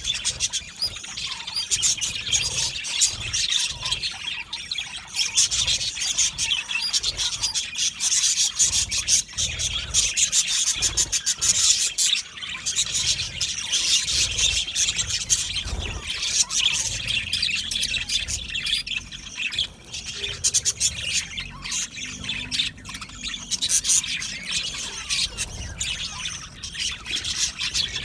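A flock of budgerigars chirping and warbling all at once, a dense continuous twittering with the odd squawk.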